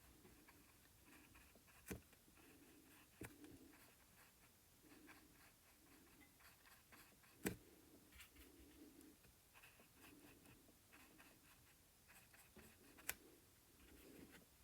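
Faint, soft dabbing and stroking of an acrylic paintbrush on the painting surface, repeated every second or so, with four sharp clicks, the loudest about halfway through.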